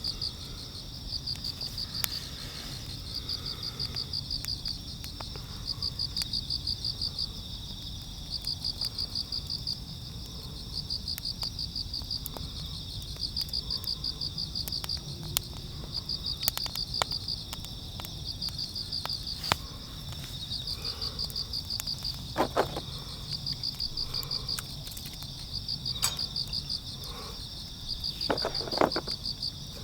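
Insects chirping in high-pitched pulsed trills, each about a second long and repeating after short gaps, with scattered light clicks and a couple of short ringing knocks in the last third.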